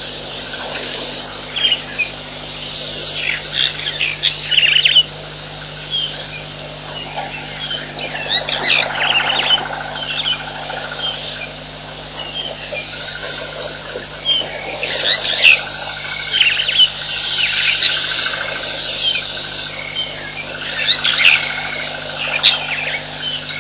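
Many small birds chirping and calling at once, a dense run of short overlapping chirps and trills, over a steady low hum.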